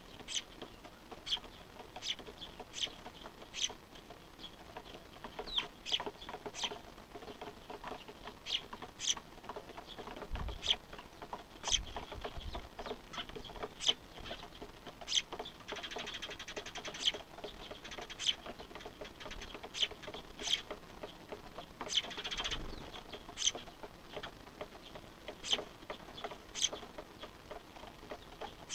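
Small birds, fledglings begging food from their parents, giving short, sharp high calls over and over, about one a second, with two longer runs of rapid calling.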